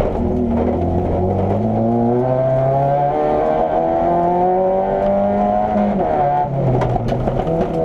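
Opel Corsa A GSi competition car's engine heard from inside the stripped cabin, pulling hard with its pitch climbing, dropping about three seconds in for a gear change, climbing again, then falling off near six seconds as the driver shifts again.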